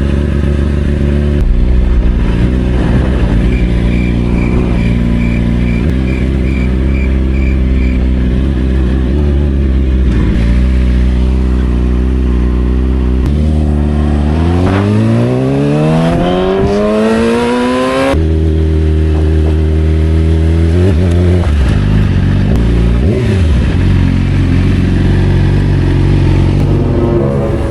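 Yamaha R6's inline-four engine running steadily, then revving up in one long rising pull of about four seconds that cuts off sharply before it settles back to a steady run.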